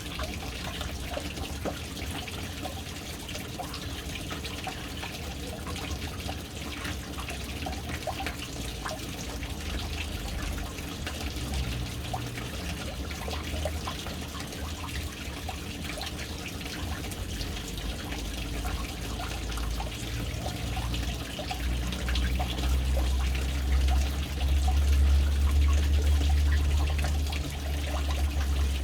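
Water running and trickling into a household water tank, a steady splashing with many small drips and splats. A low rumble underneath swells for several seconds near the end.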